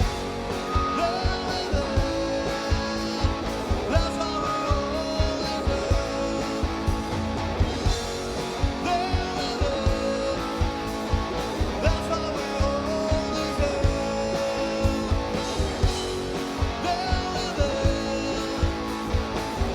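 Live rock band playing a song: guitars over a steady drum beat.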